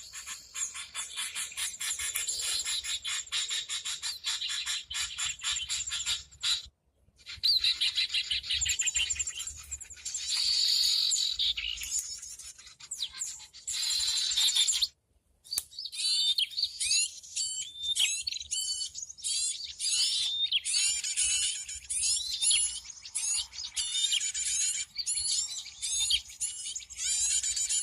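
Recorded bird calls played as a lure: dense, rapid high chirping and chattering from several birds. There are two brief cuts to silence, about a quarter of the way and halfway through. After the second one the chirps come as separate, repeated notes.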